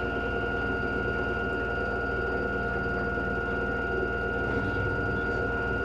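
LG washing machine running steadily: a constant hum with a high, unchanging whine.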